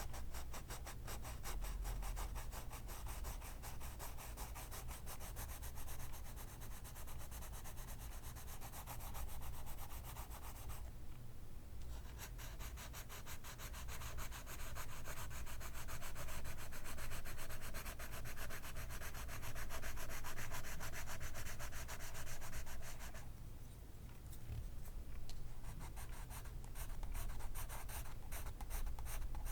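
Graphite pencil rubbing over paper in rapid back-and-forth strokes, a continuous dry scratching that breaks off briefly about 11 seconds in and dips again about 23 seconds in.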